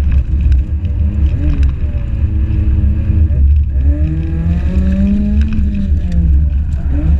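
Drift car engine heard from inside the cabin, its revs rising and falling again and again over a heavy low rumble as the car is driven. There is a brief drop in revs about three and a half seconds in.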